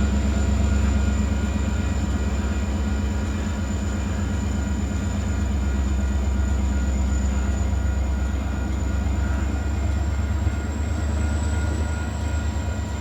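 Union Pacific diesel locomotive running steadily while switching cars, a deep continuous engine sound.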